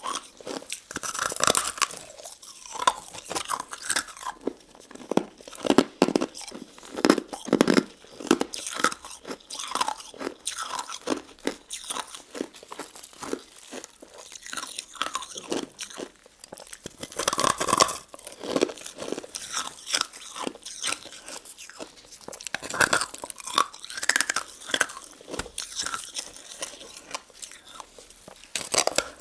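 Close-miked crunching and chewing of a crunchy crystal-ice dessert with jelly pieces: irregular crisp crunches and bites, with louder clusters now and then.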